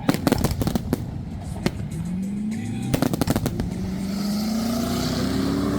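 A race car engine accelerating, its pitch climbing, dropping once as it shifts gear, then climbing steadily again. Fireworks crackle and bang in clusters near the start and again about three seconds in.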